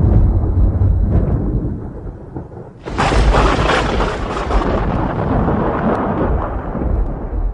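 Thunder during a rainstorm: a low rumble fades out, then a sudden sharp thunderclap about three seconds in rolls away over the next few seconds.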